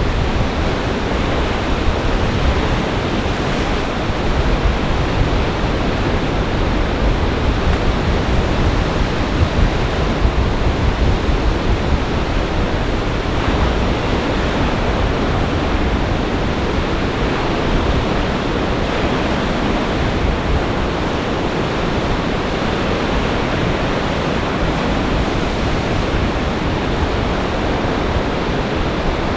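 Storm surf on Lake Michigan crashing and rushing steadily, mixed with gale-force wind buffeting the microphone as a low rumble.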